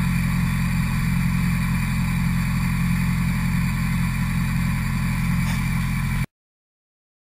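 Vauxhall X14XE 1.4-litre 16-valve four-cylinder engine idling steadily, breathing through an open K&N cone air filter on a newly fitted inlet manifold. The sound cuts off abruptly about six seconds in.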